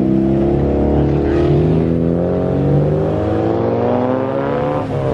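A car's engine accelerating as it drives off, its pitch climbing steadily for about five seconds, then dropping sharply near the end as it shifts up a gear.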